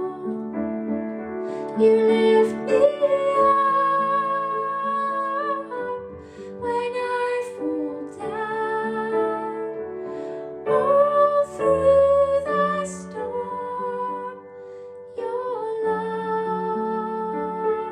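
A slow, gentle song sung by a woman over soft instrumental accompaniment, in phrases of long held notes.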